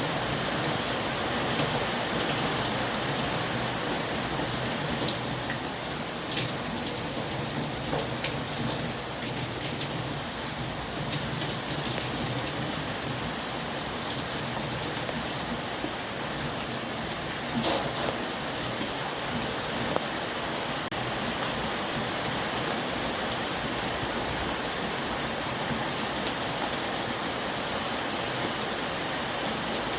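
Heavy rain falling steadily, with scattered sharper drop impacts standing out now and then.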